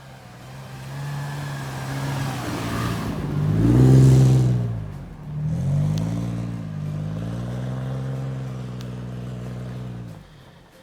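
Toyota FJ Cruiser's 4.0-litre V6 revving hard under load in snow: the pitch climbs to a loud peak about four seconds in, falls away, then rises again and holds high revs before dropping off near the end. A rushing hiss runs under the first few seconds.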